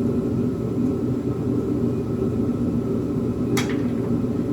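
Steady low rumble and hum of a running machine, such as a fan or heater, with a single sharp click about three and a half seconds in.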